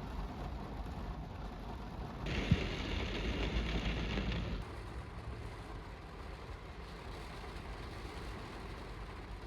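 Steady low rumble of vehicle engines and traffic, swelling louder for about two seconds starting about two seconds in, with a single click during the louder stretch.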